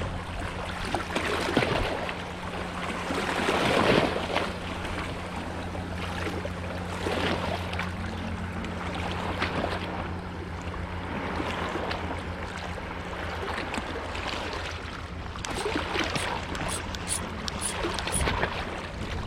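Steady low engine hum, with water sloshing and wind noise over it.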